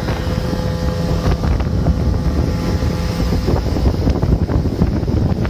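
Mikatsu 9.8 two-stroke outboard motor running steadily as the inflatable boat moves on the water, with heavy wind buffeting on the microphone.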